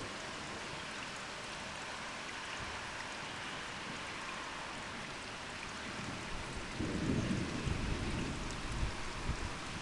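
Steady hiss of rain, then a low, ragged rumble of thunder building from about seven seconds in.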